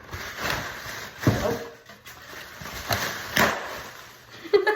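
Box packaging of a mini fridge being handled and pulled at to get it open: a few short scrapes and knocks, the loudest about a second in and again near three and a half seconds.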